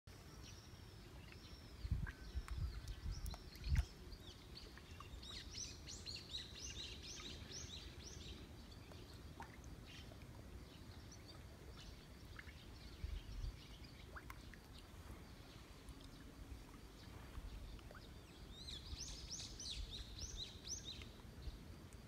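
Songbirds calling in quick series of high, rapidly repeated chirps, once about six seconds in and again near the end, over a low steady background. A few loud low thumps come about two to four seconds in and once more about thirteen seconds in.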